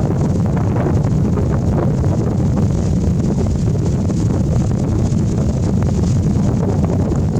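Wind buffeting the microphone: a steady low rumble with a few faint scattered clicks.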